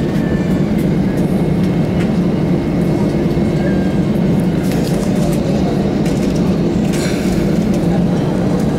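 Steady cabin rumble of an Airbus A320 on the ground after landing, engines at idle, with a low steady hum.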